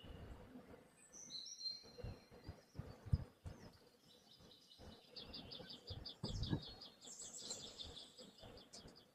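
Small birds chirping, with a fast trill of high repeated notes from about halfway through, over scattered low knocks and thuds.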